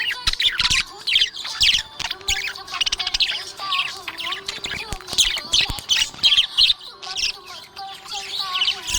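Budgerigars chirping and warbling without pause: a dense run of quick, high chirps.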